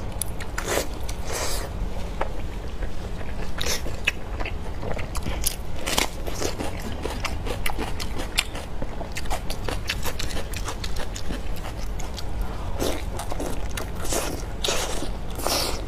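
Close-miked biting and chewing of chili-sauced lamb intestines: irregular wet mouth sounds and sharp little clicks, one after another.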